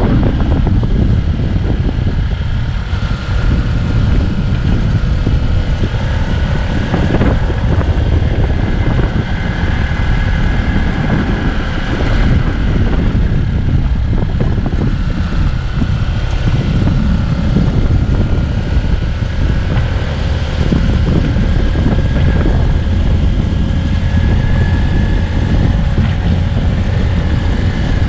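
Steady heavy wind rumble on the microphone over a continuous engine drone from a moving vehicle, with a faint whine running through it.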